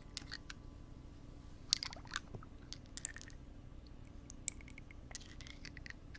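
Close-miked ASMR ear-cleaning sounds on a binaural microphone: irregular soft crackly clicks and scratches, a few sharper ones about two seconds in and again near four and a half seconds.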